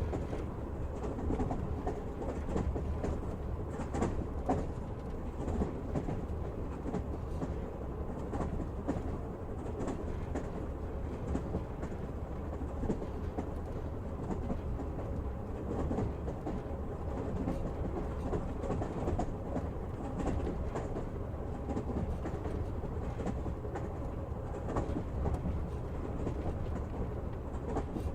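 Passenger train car running along the track, heard from inside the carriage: a steady rumble of wheels on rails with an occasional clack or knock.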